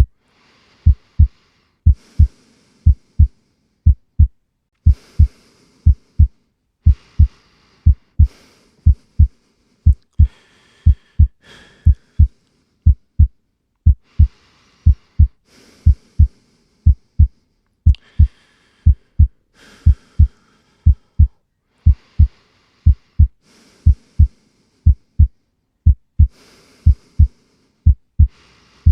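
Slow, steady heartbeat, the beats coming in lub-dub pairs about once a second, with a faint airy hiss above them.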